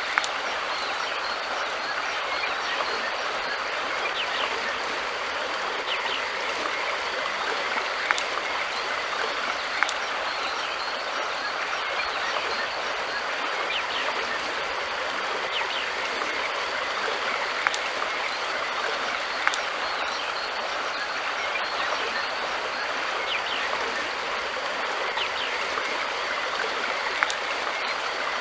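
River water flowing steadily, with a few sharp clicks scattered through it.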